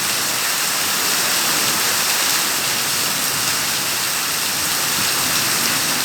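Steady rain falling, a loud, even hiss that holds without let-up.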